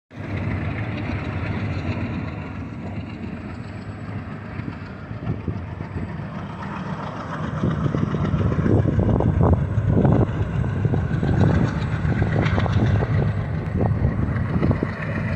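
A train running on the tracks, getting louder about halfway through with a run of short clanks and knocks.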